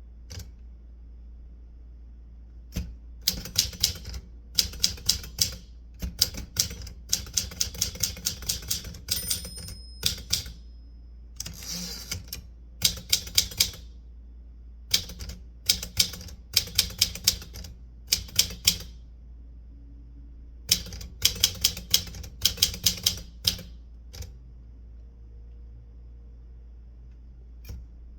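Typewriter keys being struck in quick runs of clicks with pauses between words and phrases. A short ringing tone sounds about nine seconds in, and the typing goes quiet for the last few seconds.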